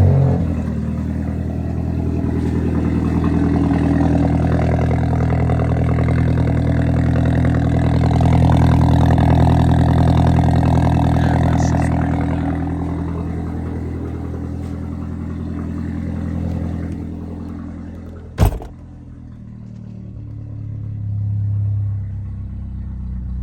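Straight-piped exhaust of a 2016 Ford Focus (muffler and resonator deleted), engine running with a steady drone that grows louder, then eases off. A single sharp knock comes about eighteen seconds in, after which the engine sound is quieter.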